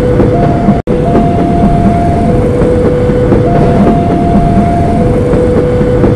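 Electric commuter train rolling past close by, a loud steady rumble of wheels on rails. Over it a steady two-note tone alternates high and low every second or so. The sound cuts out for a split second about a second in.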